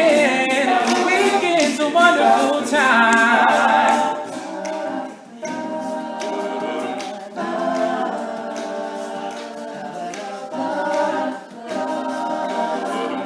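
Male a cappella group singing close harmony with no instruments. A lead voice runs and glides over the backing chords for about the first four seconds, then the group sings softer, held chords.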